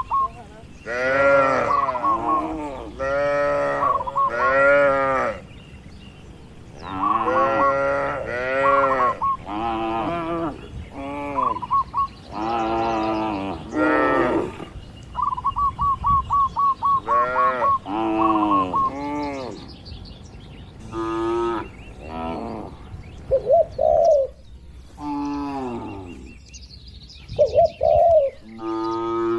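Cattle mooing again and again in short calls that rise and fall in pitch, several in quick succession, with a bird chirping in quick runs of high notes between them.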